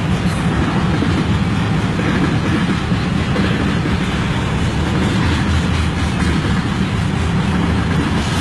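A long CN freight train's cars rolling past close by: a steady, loud run of wheel-on-rail noise, heaviest in the low end, with no break.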